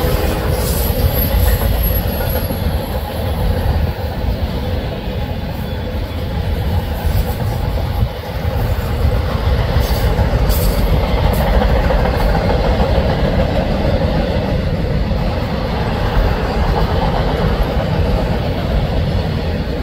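Canadian National intermodal freight train rolling past close by: a steady, loud rumble of steel wheels on the rails with some clickety-clack.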